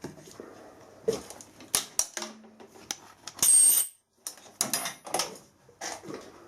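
Metal clinks and knocks of tools and a drill being handled at a machine, with a short loud rushing burst about halfway through.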